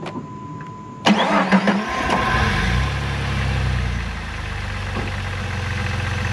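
Jeep 4.0L pushrod inline-six cranking on the starter about a second in, catching quickly with a brief rise in revs, then settling into a steady idle. It now starts because a coil boot that was not seated on its spark plug, leaving that cylinder without spark, has been reseated. A steady tone sounds in the first second before cranking.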